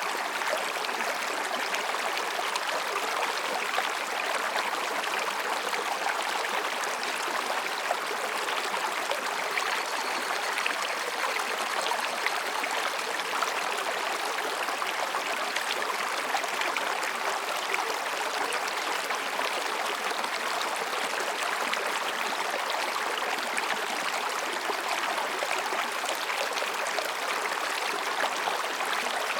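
Mountain stream babbling steadily as it flows over and between rocks.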